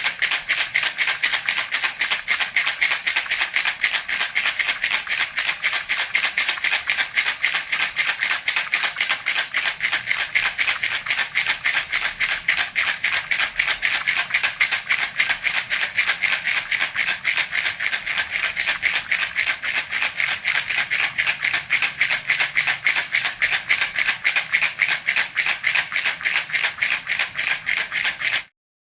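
A baby's rattle (jhunjhuna) shaken rapidly and steadily, its beads making an even run of bright rattling strokes. It breaks off for a moment near the end, then carries on.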